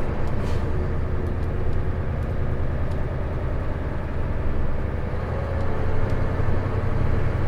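Isuzu Erga city bus heard from inside the cabin while driving: a steady low diesel engine drone with road noise. A short hiss comes about half a second in.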